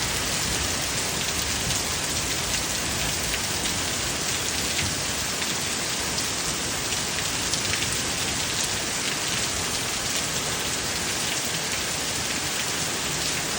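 Steady rain falling on a surface, an even wash of noise with faint individual drop ticks scattered through it.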